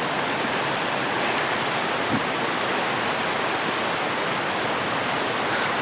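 Steady rush of a fast-running creek.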